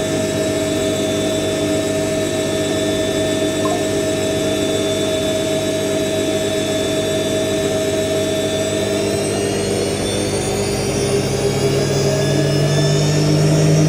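IKEA Renlig IWM60 washing machine spinning, its motor whining steadily with a slightly screechy edge from rough motor bearings. About nine seconds in the pitch starts to rise as the drum speeds up.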